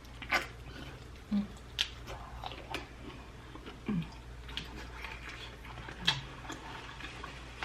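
Close-up chewing and wet mouth sounds of someone eating sauce-coated prawns, with scattered short clicks and smacks.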